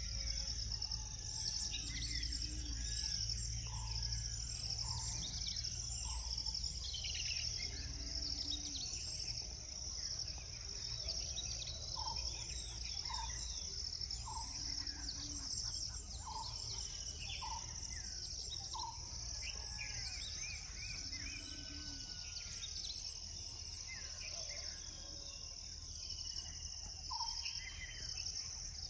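Dawn chorus of several birds calling at once over a steady high insect drone. Within it are two runs of repeated notes about a second apart, and a low steady rumble sits underneath.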